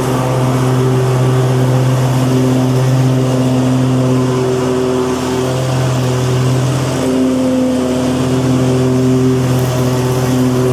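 Lawn mower engine running steadily at a constant speed, loud and even throughout.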